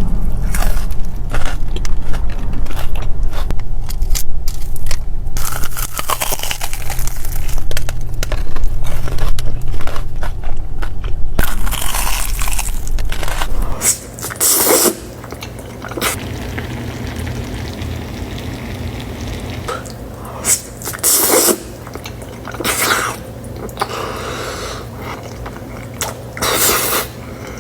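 A person eating close to the microphone: dense, loud biting and chewing for about the first half, then quieter, with separate short mouthfuls a few seconds apart.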